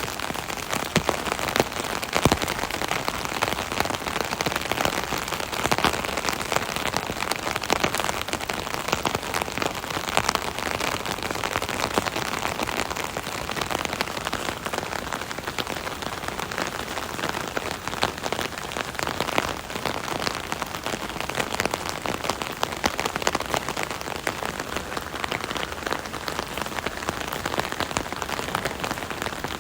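Steady rain pattering on an umbrella overhead, a dense stream of fine drop taps.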